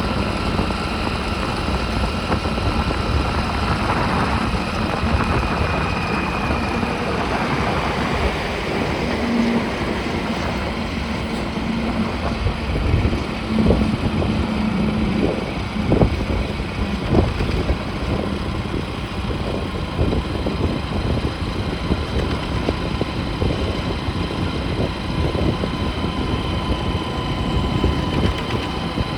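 Motorcycle engine running steadily on the move, with wind on the microphone and a few brief knocks about halfway through.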